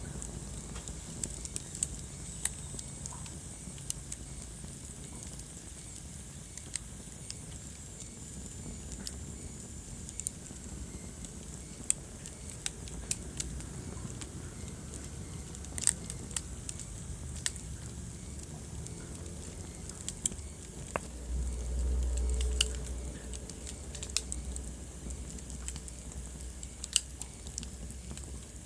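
Wood fire burning in a fireplace, crackling steadily with irregular sharp pops. A faint high whistle runs for several seconds in the first third, and a brief low rumble comes about three quarters of the way through.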